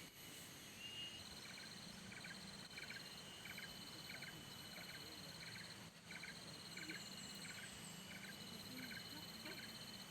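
Insect chorus: a cricket-like pulsing trill in long runs over a steady high buzz, with a short two-part chirp repeating about twice a second.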